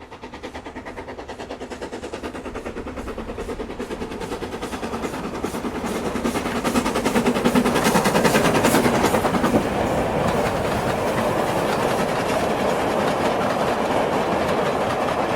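Model train running on its track, its wheels clicking rapidly and evenly over the rail joints. It grows louder over the first several seconds as it approaches, then runs on steadily.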